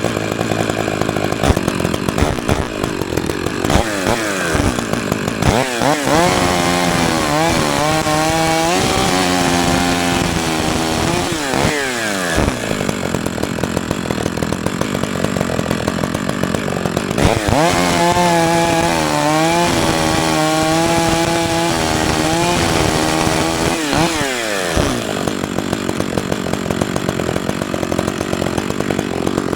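Gasoline chainsaw running at high revs and cutting into wood. Its engine pitch drops and holds steady under load through two long cuts, about seven and eighteen seconds in, and climbs again between and after them.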